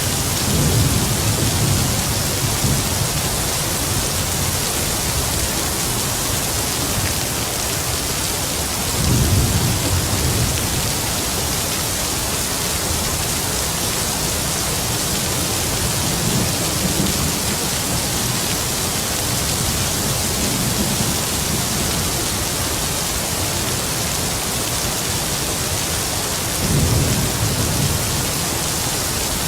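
Heavy rain falling in a steady hiss, with several low rumbles of distant thunder swelling and fading through it.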